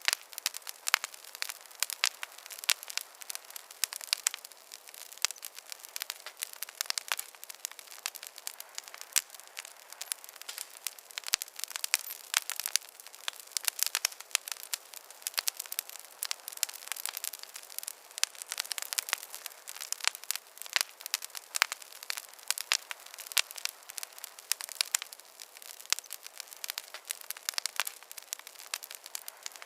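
Wood fire crackling in a fireplace: dense, irregular snaps and pops over a soft hiss.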